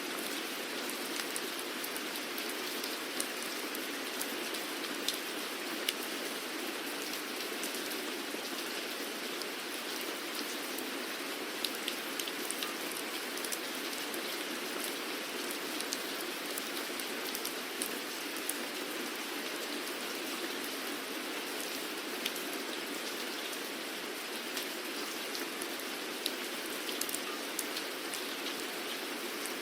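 Steady rainfall, an even hiss of rain with many individual drops ticking sharply on a surface.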